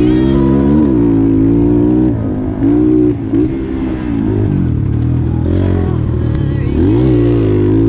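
A Highper 150 pit bike's single-cylinder engine revving up and down as it is ridden. Its pitch rises and falls several times, with short dips as the throttle comes off.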